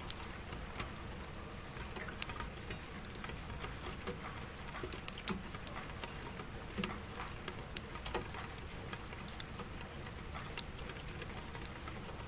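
Steady rain falling, with individual drops striking a surface close by as irregular, scattered sharp ticks over the even patter.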